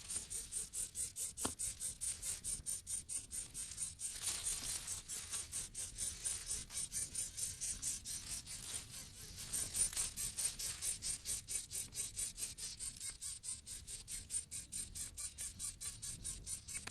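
Nestlings begging in the nest: a rapid, even train of high, thin chirps, about five a second, that goes on without a break.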